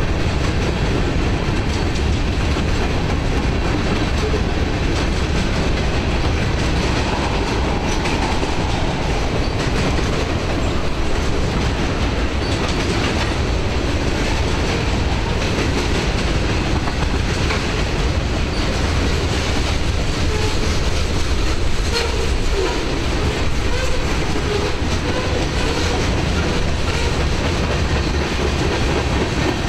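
Freight cars of a long mixed freight train, covered hoppers and boxcars, rolling past at steady speed: a continuous rumble of steel wheels on rail with clicking over the rail joints.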